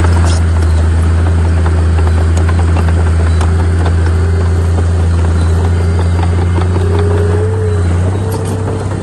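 Heavy diesel engine of earthmoving machinery running steadily with a strong low drone and scattered faint clicks, easing off slightly about eight seconds in.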